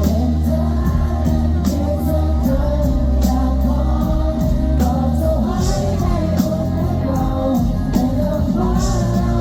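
A pop-rock band playing live: a sung lead vocal over electric guitars, bass and a steady drum beat.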